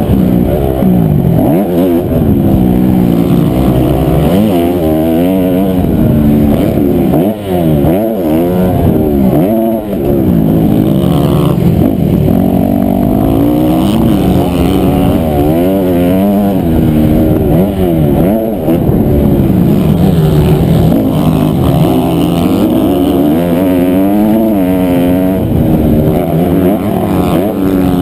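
Honda CRF250R single-cylinder four-stroke motocross engine revving hard under the rider, its pitch climbing and falling again and again as the throttle opens and closes through the gears, with brief drops about seven and ten seconds in where the throttle is chopped.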